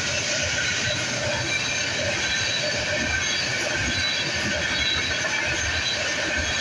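Freight train of railroad tank cars rolling past close by: a steady rumble of steel wheels on rail, with thin high squealing tones from the wheels.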